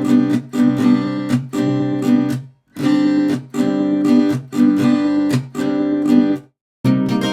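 Background music: an acoustic guitar strumming chords in a steady rhythm, with two short breaks, one about two and a half seconds in and one near the end.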